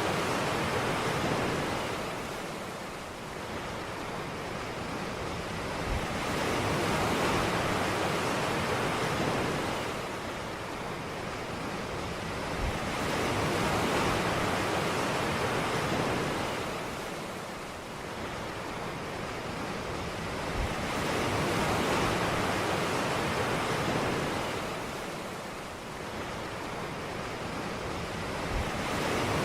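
Ocean waves breaking on a beach, the surf swelling and receding about every seven to eight seconds. Each wave breaks with a soft low thump.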